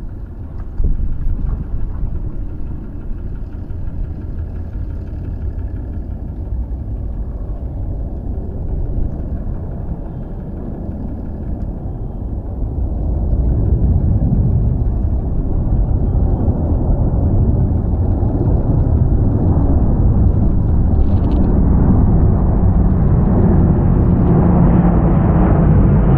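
Boeing C-17 Globemaster III jet transport's four turbofan engines running with a deep rumble, growing louder about halfway through and rising further with a building whine near the end as the aircraft powers up for take-off.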